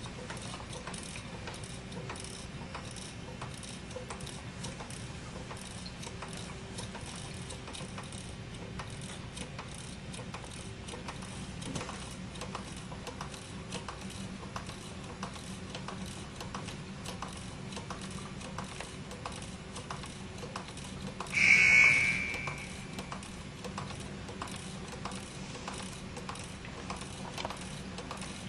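A 1/4-scale Rider-Ericsson hot air pump engine running steadily, its mechanism clicking in an even rhythm over a low hum. About three-quarters of the way through, a brief loud high-pitched tone sounds for about a second.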